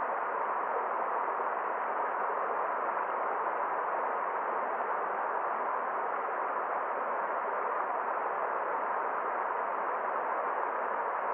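Forest stream flowing, a steady, even rush of water with no separate splashes or other events.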